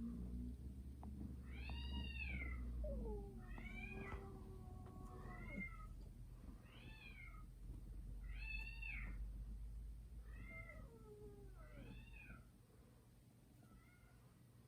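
Two cats in a territorial standoff, yowling at each other: repeated rising-and-falling yowls about every second and a half, with a lower, drawn-out falling moan under some of them. The calls grow fainter near the end.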